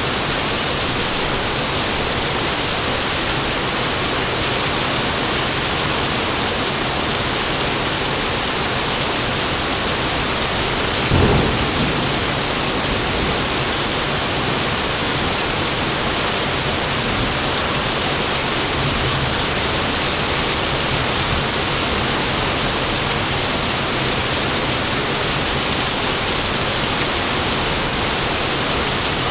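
Heavy rain falling steadily, with one brief, loud clap of thunder about a third of the way in, trailing off into a faint low rumble.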